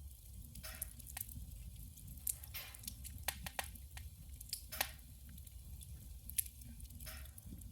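Wood fire burning in a wood stove: scattered sharp crackles and pops with brief hisses, over a low steady rumble.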